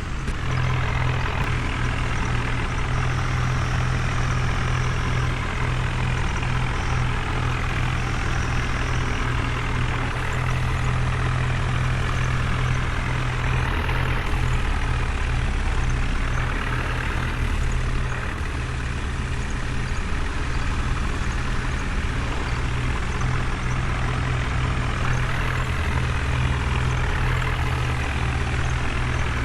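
Heavy vehicle engine running steadily, with a constant low hum.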